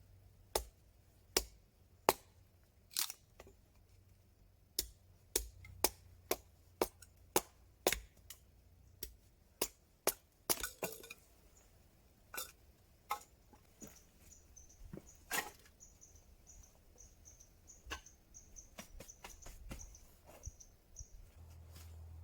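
Dry wood cracking and snapping: a long series of sharp, irregular cracks, some coming in quick runs.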